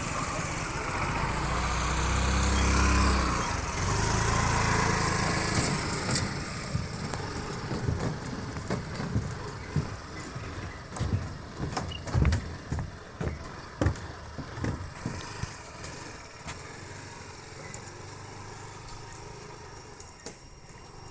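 Motor vehicle engine running for the first several seconds, loudest about two to four seconds in, then fading out. After that come irregular low thumps and knocks that grow sparser toward the end.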